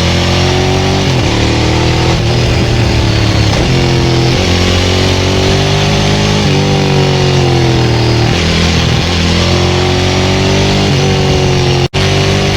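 Ducati 900SL's air-cooled V-twin breathing through a Termignoni full exhaust, ridden hard: the engine note climbs and drops over and over as the rider opens and rolls off the throttle and shifts gears. There is a split-second gap in the sound near the end.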